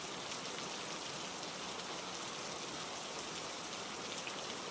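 Steady rainfall: an even hiss with scattered faint drop ticks.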